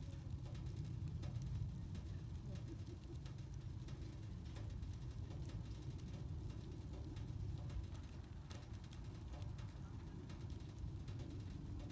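Wood campfire burning, with scattered small crackles and pops over a steady low rumble.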